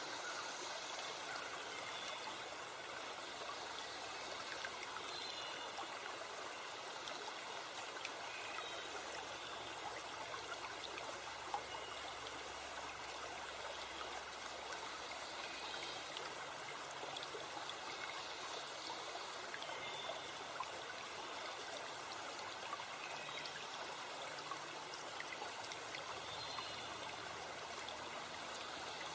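Forest stream or river water rushing steadily, with birds chirping in short calls now and then above it.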